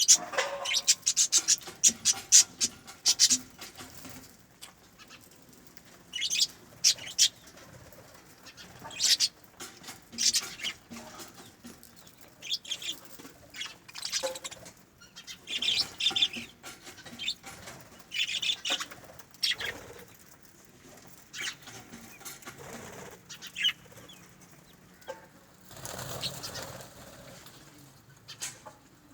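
Birds fluttering and calling in short, scattered bursts, some sharp and high-pitched, coming irregularly with brief quiet gaps between.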